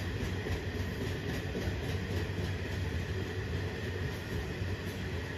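A long train of coal hopper wagons rolling past: a steady low rumble of wheels on rail.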